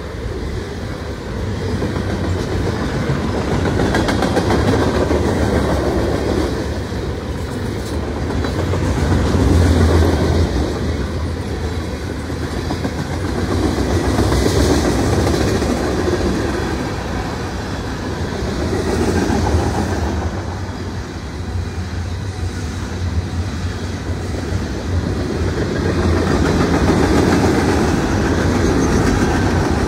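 Freight cars of a mixed freight train rolling past close by: a steady rumble of steel wheels on the rails, swelling and easing every few seconds as the cars go by.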